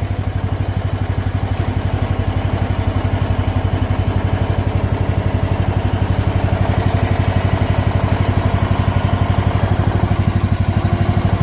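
Mini excavator engine running steadily with an even, rapid firing pulse, just after being started to test a freshly refitted hydraulic drive motor seal.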